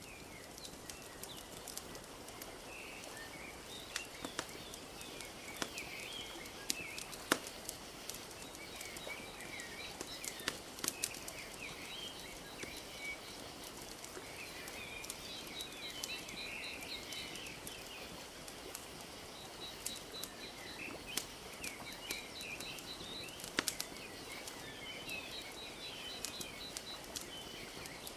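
Wood fire crackling with scattered sharp pops over a steady wash of lake water lapping. Small birds chirp throughout, and a rapid repeated high trill comes in and out.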